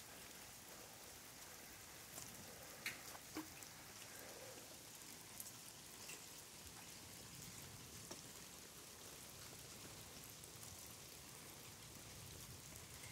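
Faint patter of light rain: a soft, even hiss with a few scattered drips and taps.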